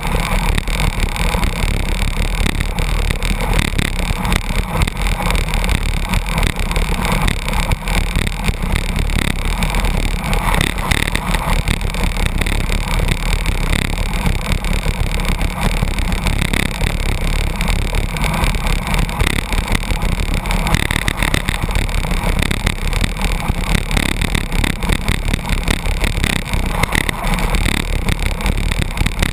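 Steady loud rush of wind buffeting the microphone, mixed with road and truck noise, from a bicycle drafting close behind a truck at high speed.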